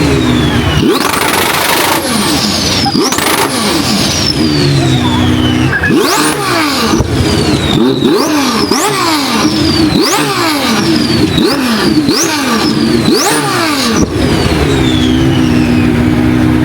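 A car engine being revved over and over, about once a second; each rev rises sharply and falls back. Near the end it settles to a steady idle.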